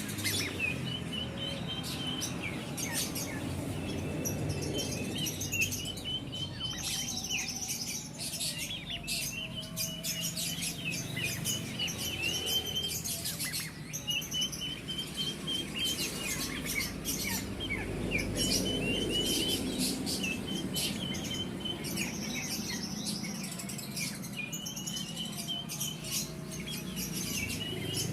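Several kept songbirds chirping and calling, with short repeated phrases and sharp ticks going on steadily, over a low background rumble.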